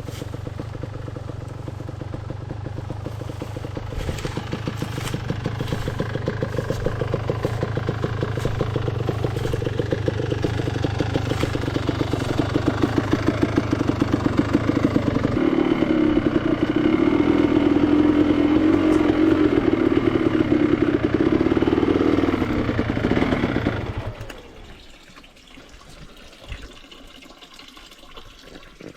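Enduro motorcycle engine running, growing louder and changing pitch about halfway through, then cut off about 24 seconds in, leaving a much quieter background.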